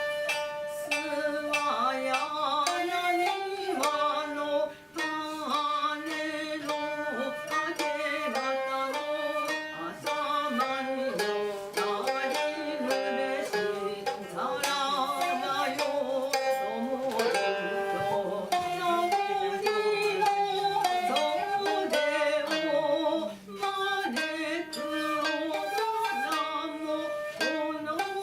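Japanese traditional ensemble music: plucked koto strings with shakuhachi, playing continuously.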